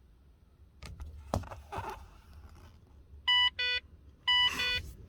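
Two light clicks, then the Holden VZ Commodore's dashboard warning chime: two short electronic beeps about three seconds in and two more about a second later, sounding as the instrument cluster shows fault messages such as a fuel gauge error.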